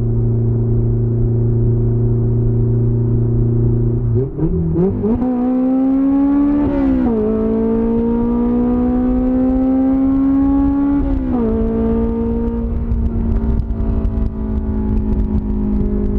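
Honda S2000's four-cylinder engine blaring through an open header, with no muffling. It runs at a steady pitch, then about four seconds in pulls hard with the pitch climbing, drops sharply twice as it is shifted up a gear, and settles back to a steadier pitch near the end.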